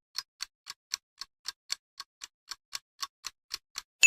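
Countdown-timer sound effect ticking like a clock, about four ticks a second: the quiz's answer timer running out. A bell ding sounds at the very end.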